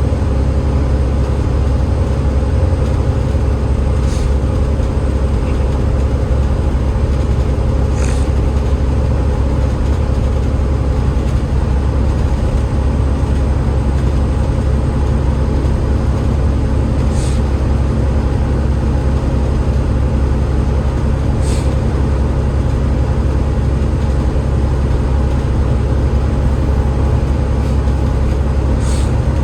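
Alexander Dennis Enviro500 MMC double-decker bus under way at a steady speed: its Cummins ISL8.9 diesel and ZF EcoLife automatic gearbox drone steadily with road noise and no gear change. Five short high-pitched sounds break in, spread through.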